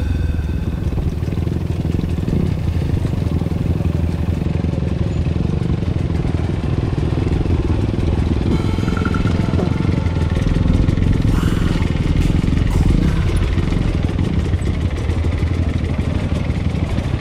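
Dirt bike engine running steadily as it is ridden at low speed over a rough dirt trail, heard close from the rider's own bike.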